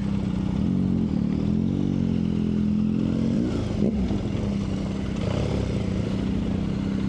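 Motorcycle engine running at low speed, mostly steady, with its pitch rising and falling a few times between about one and four seconds in as the throttle is worked, and a brief clatter about three and a half seconds in.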